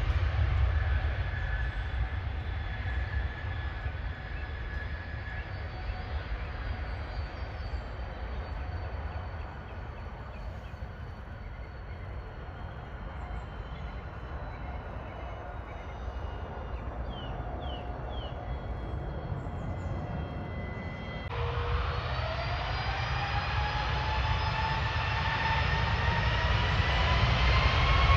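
Jet airliner engines fading away over a low rumble. About three-quarters of the way through, the sound changes abruptly to a jet engine whine that rises in pitch and grows steadily louder, as engines spooling up do.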